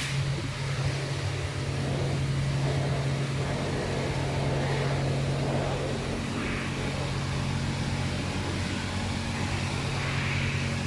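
Car wash heard from inside a Mitsubishi Pajero's closed cabin: a steady low hum with a rushing noise over it that swells now and then.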